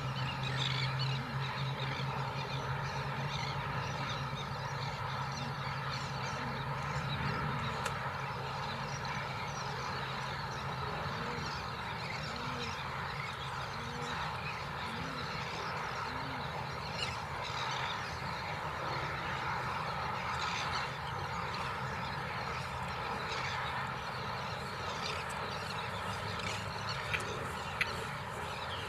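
Steady outdoor background with faint bird calls, and two sharp clicks near the end.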